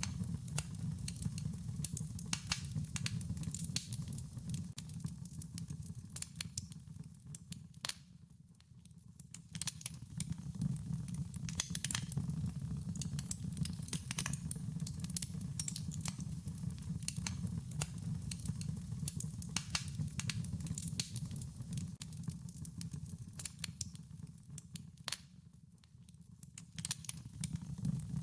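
Wood fire crackling, with irregular sharp pops and snaps over a steady low rumble; it dips quieter twice, about eight seconds in and near the end.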